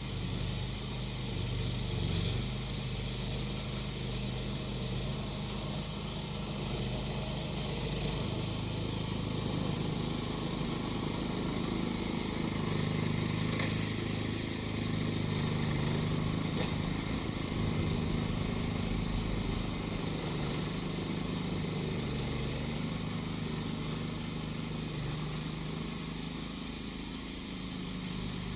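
Small engine of a grass-cutting machine running steadily, its pitch wandering a little up and down under load, with a chorus of cicadas buzzing high above it.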